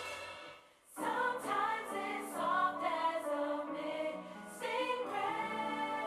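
Recorded gospel choir singing sustained chords with voices moving over them. The music drops out briefly just under a second in and then starts up again.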